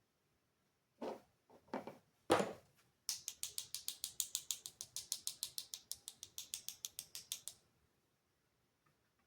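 Three short scuffs, then a fast, even run of dry scratchy strokes, about eight a second, that stops abruptly after some four seconds: a paintbrush being scrubbed or dabbed rapidly against the painting surface.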